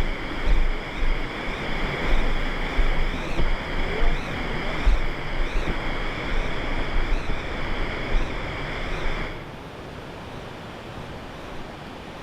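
Steady loud rush of falling water from a waterfall, with low buffeting on the microphone. About nine seconds in it drops suddenly to a quieter, duller rush.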